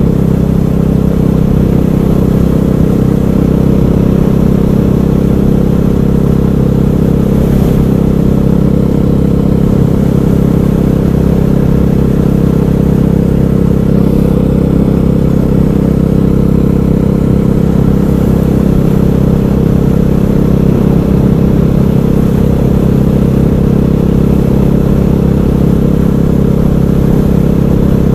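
KTM 500 EXC supermoto's single-cylinder four-stroke engine running under way at a steady, even engine speed, with no revving or gear changes.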